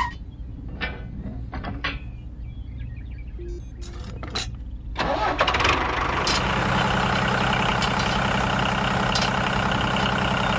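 A few light clicks and knocks, then about five seconds in an engine starts and settles into a steady idle.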